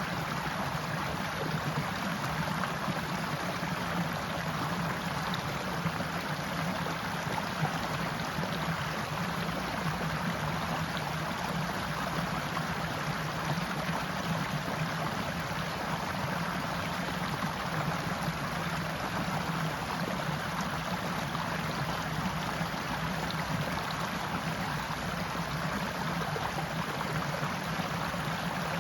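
Stream flowing steadily: a continuous, even rush of running water with no change or single events.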